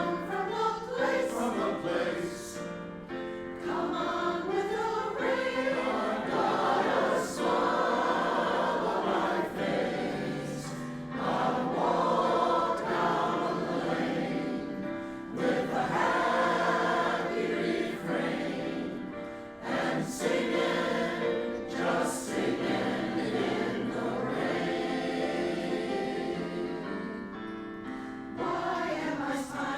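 A choir singing in harmony, holding sustained chords that move from one to the next.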